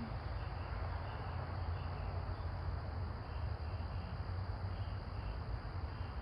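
Outdoor background noise: a steady low rumble with faint, short, high chirps repeating irregularly every half second or so.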